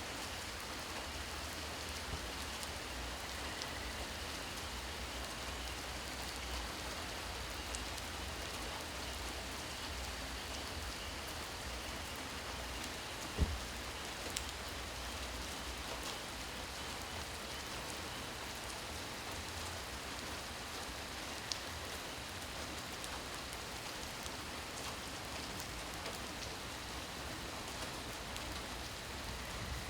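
Steady rain falling at night, an even hiss dotted with the ticks of single drops. About halfway through there is one sharp, louder knock.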